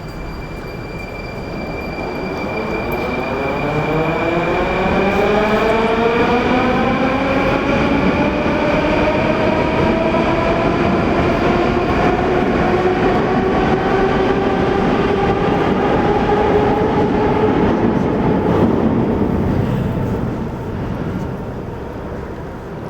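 81-740/741 'Rusich' metro train pulling out and accelerating. Its traction drive gives a stack of whining tones that rise steadily in pitch, then level off and fade as it leaves, over wheel-on-rail rumble.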